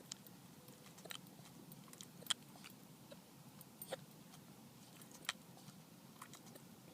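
A small Shorkie dog hiccupping: short, sharp hiccups at irregular gaps of about a second, around seven in all.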